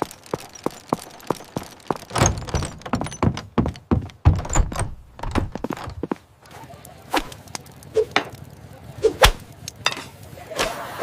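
A run of knocks and thunks: evenly paced at about three a second at first, then a denser cluster of heavier thuds, then scattered single knocks near the end.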